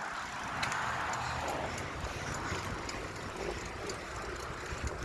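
Bicycle in motion: steady road and wind noise, with scattered light clicks and rattles. A band of noise near the start fades after about a second and a half.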